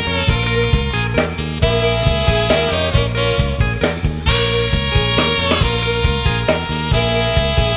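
Instrumental acid-jazz groove: saxophone and brass lines over a drum kit and bass playing a steady beat.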